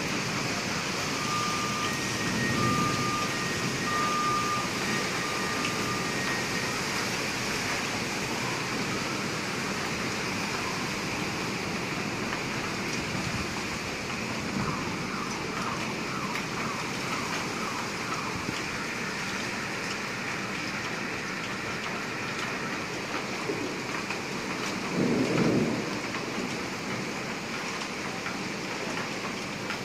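Steady rain falling on flooded streets, an even hiss. A few short electronic beeps sound in the first few seconds, and a brief low rumble comes near the end.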